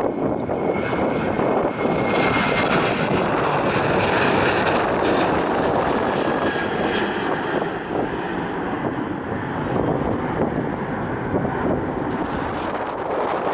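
Jet airliner engines passing close by: a loud, sustained engine rush, with a high steady whine over it for the first few seconds.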